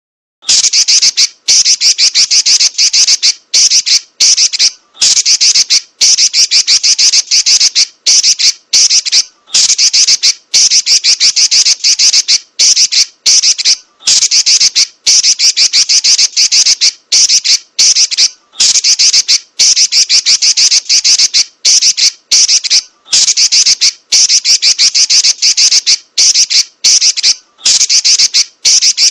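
Female red-billed leiothrix (Pekin robin) giving loud, rapid, high-pitched chattering calls in long rolls, each broken by a brief pause, starting about half a second in.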